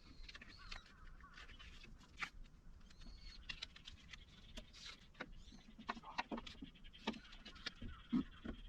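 Faint scattered clicks and short squeaks of plastic as a trim rivet on a car's inner door cover is worked at to remove it.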